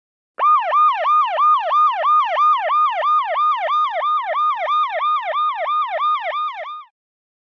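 Police car siren sounding in a fast yelp, its pitch sweeping up and falling back about three times a second. It starts abruptly and cuts off just before the end.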